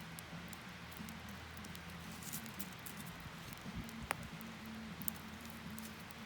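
Wood campfire crackling: a steady hiss with scattered small crackles and two sharper pops, about four and five seconds in.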